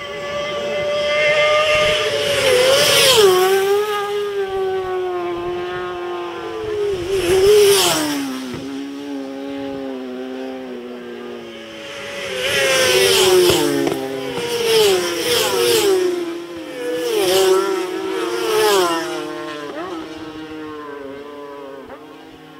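Racing superbikes passing at speed, one after another, with a close group in the second half. Each engine runs hard, then drops in pitch as it goes by, with gear changes. The sound fades near the end.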